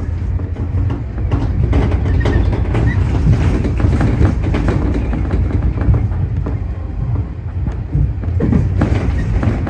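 Tobu 30000 series electric train running at speed, with a steady rumble and wheels clattering over rail joints.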